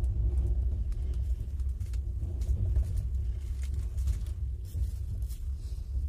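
Steady low rumble of a passenger train in motion, with a few faint clicks.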